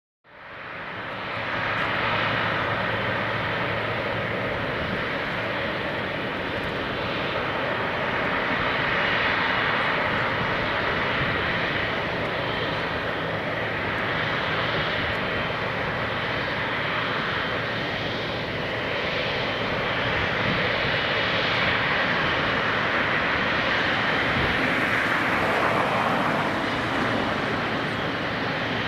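Jet airliner engine noise: a steady, dense rush that comes up quickly after a sudden cut, holds level, and swells briefly near the end.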